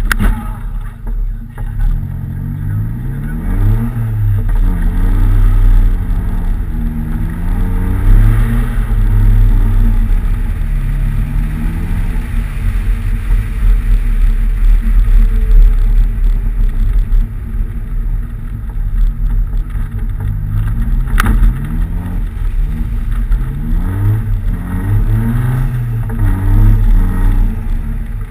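Nissan 200SX engine revving up and down again and again as the car is driven on snow, its pitch rising and falling, over a strong low rumble. A single sharp click comes about 21 seconds in.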